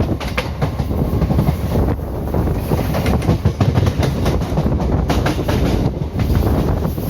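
Indian Railways ICF passenger coach running along the track: a steady rumble with the wheels clacking irregularly over rail joints, and wind rushing past.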